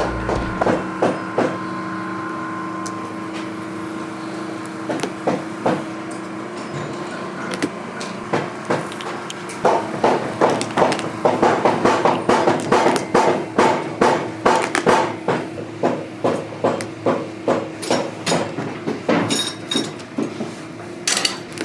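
Boot-repair hammering: a run of sharp knocks, scattered at first, then steady at about two to three a second through the second half, over a steady machine hum.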